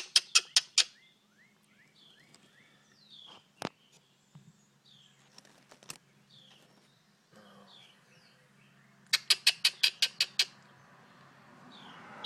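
Young birds giving faint, scattered short downward chirps. Two bursts of rapid sharp clicking, about seven a second, come at the start and again about nine seconds in.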